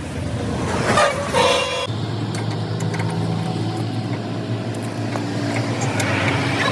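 A vehicle horn toots briefly about a second in. After it comes the steady low hum of a motor vehicle engine running.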